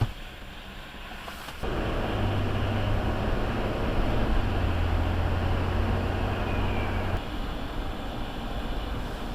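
Vehicle running and driving, picked up by a dash cam: a short click at the start, then a sudden rise about a second and a half in to steady engine and road noise, with a low hum for several seconds.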